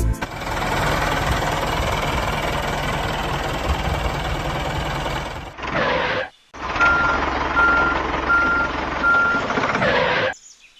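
A steady engine-like vehicle noise that breaks off about five and a half seconds in with a brief silence, then resumes with a vehicle reversing beeper sounding four short, evenly spaced beeps.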